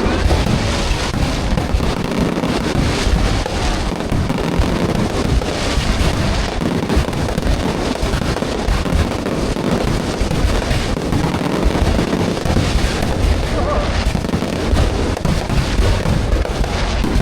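Fireworks display: a dense, continuous barrage of bangs and crackling, with deep booms underneath.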